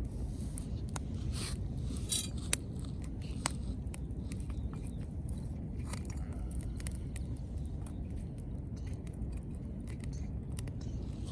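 Wood fire crackling: irregular sharp pops and snaps over a steady low rumble, a few louder snaps a couple of seconds in.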